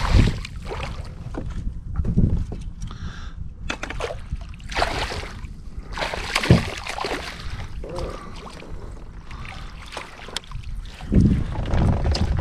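Water sloshing and splashing around a fishing kayak, with uneven bursts of noise and a low rumble near the end, in the run-up to landing a hooked bass.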